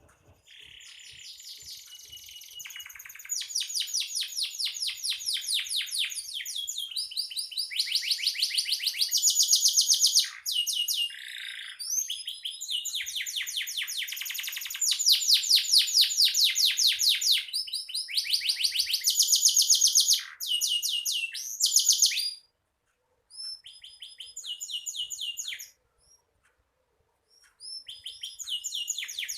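Domestic canary singing continuously, in long rolling trills of fast repeated high notes, phrase after phrase, with two short breaks about three quarters of the way through.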